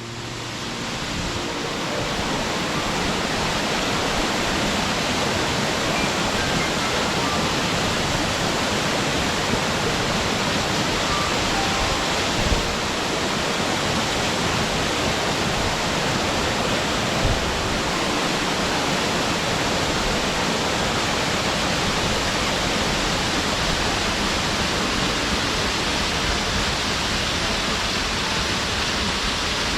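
Waterfall pouring steadily, an even rushing noise of falling water that fades in over the first couple of seconds.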